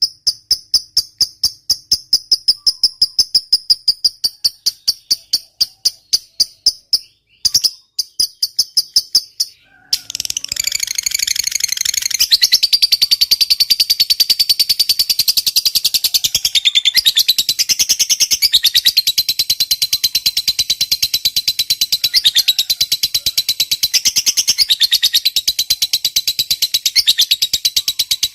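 Lovebird singing: about ten seconds of sharp, evenly spaced high chirps, about five a second, then after a brief break a long, unbroken, very rapid high chatter, the drawn-out 'ngekek panjang' song that fanciers use as a lure to get silent lovebirds to sing.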